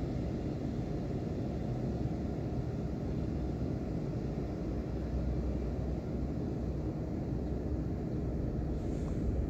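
Steady, even low rumbling noise with no breaks or distinct events, played as a white-noise ambience.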